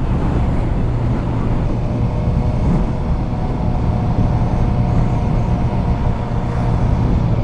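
Motorcycle engine running steadily while riding, with wind and road rush.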